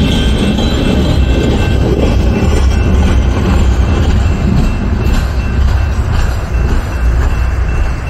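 A freight train of loaded open hopper cars rolling past and away over a grade crossing, its wheels rumbling and clacking on the rails and the sound easing slightly in the second half. The crossing bell rings over it.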